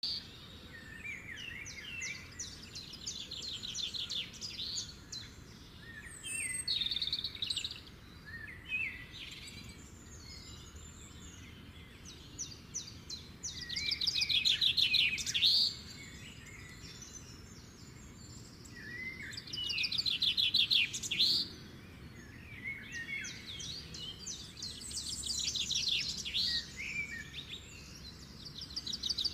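Songbirds chirping and singing, with several overlapping calls and fast trills that grow louder in a few stretches.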